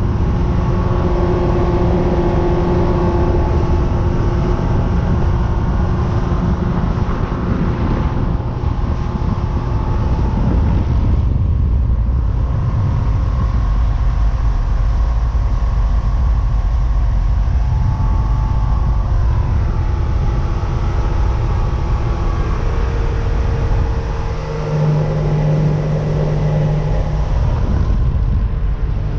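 Motorboat engine running under way, a steady loud drone over heavy rumble of wind and water, its pitch shifting a few times as the throttle changes.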